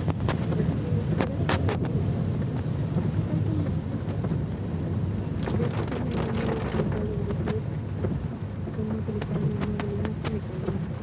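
Steady monsoon rain with a heavy low rumble underneath and scattered sharp taps. A faint wavering tone comes in about halfway through.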